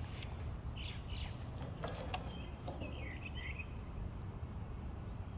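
A small songbird chirping in short bursts, about a second in and again around three seconds in, over a steady low rumble of outdoor noise. A few sharp clicks come about two seconds in.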